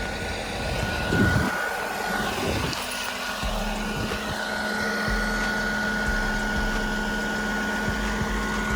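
Dump truck engine running with the PTO engaged and the body raised all the way, a steady high whine over it. A deeper steady hum comes in about three and a half seconds in.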